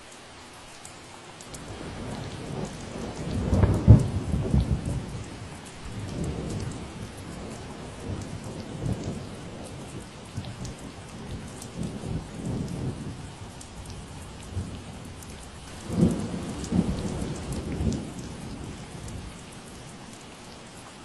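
Steady rain falling, with a long roll of thunder that builds about two seconds in, is loudest around four seconds, rumbles on and swells again near the end before fading out.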